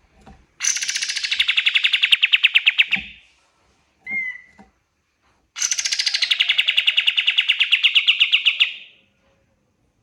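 Kapas tembak bird singing: two long, rapid trills of about three seconds each, with a short chirp between them.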